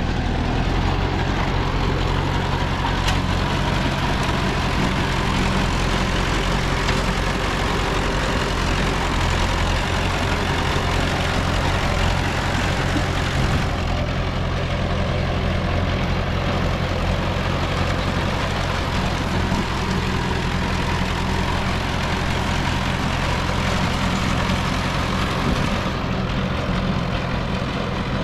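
Diesel engine of heavy earth-moving equipment running at a steady speed, a low even drone; its tone shifts slightly about halfway through and again near the end.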